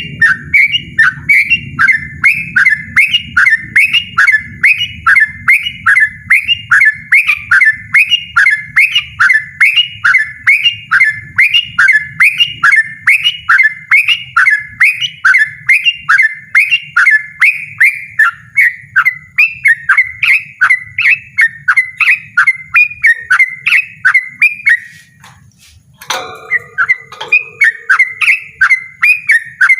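Yellow-vented bulbul singing a loud, insistent, rapid run of short repeated notes, about three a second. The run breaks off briefly near the end with a single knock, then starts again.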